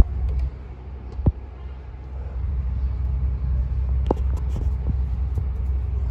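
A steady low rumble with a few sharp knocks: one right at the start, one just over a second in and one about four seconds in. The rumble eases off for a second or two after the first knock, then comes back.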